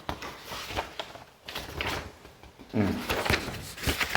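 Classroom room sound: scattered light knocks and rustles of handling, with a brief low voice about three seconds in.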